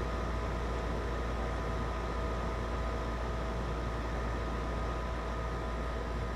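Goodman GSX13 4-ton R410A condensing unit running while it is being charged with refrigerant: a steady low hum and an even rush of air, with a few steady whining tones over it.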